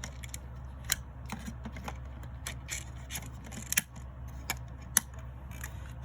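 Plastic clicks and rubbing from a battery being fitted into a Panasonic Lumix FZ80 bridge camera. About a dozen irregular sharp clicks, the loudest near 1, 4 and 5 seconds in, sound over a steady low hum.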